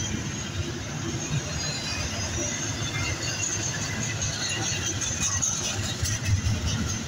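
Double-stack container train rolling past: a steady rumble of steel wheels on the rails, with occasional faint clicks.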